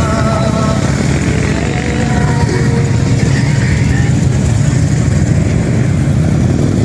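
Harley-Davidson motorcycle engines running, a loud, steady low engine sound, with a brief higher-pitched tone in the first second.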